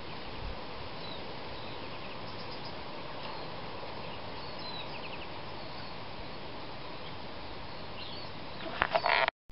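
Outdoor garden ambience: a steady hiss with faint, scattered bird chirps, and a brief louder burst of calls near the end.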